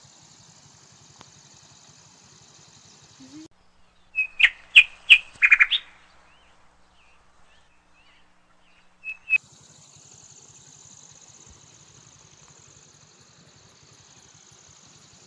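A bird calling: a quick series of about five loud, sharp notes about four seconds in, and one more note a few seconds later. Around the calls runs a steady high-pitched hiss, which drops out for a few seconds while the bird calls.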